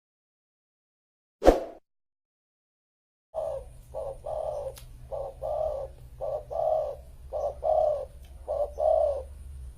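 A single sharp thump about a second and a half in, then a zebra dove (perkutut) cooing: a run of short, rounded notes in quick groups over a steady low hum.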